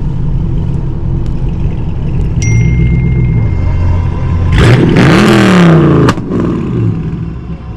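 V8 muscle-car engine idling with a steady low rumble, then revved hard about four and a half seconds in, the pitch climbing and dropping back, followed by a shorter rev that falls away.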